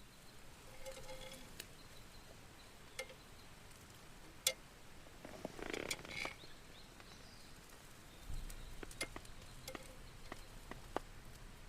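Quiet outdoor ambience with scattered small clicks and taps and a few short, faint chirps.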